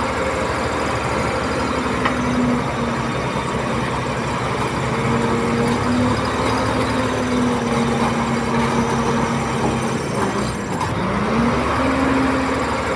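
Komatsu D31P bulldozer's diesel engine working steadily under load. Its pitch wavers as the load changes, sags sharply about eleven seconds in, then climbs back up.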